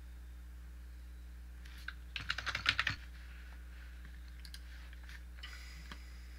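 Computer keyboard typing: a quick run of keystrokes lasting about a second, a couple of seconds in, with a few single clicks before and after. A steady low hum underneath.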